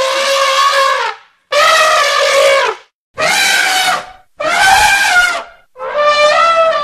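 Elephant trumpeting: a series of about five loud, brassy trumpet calls, each about a second long, separated by short pauses.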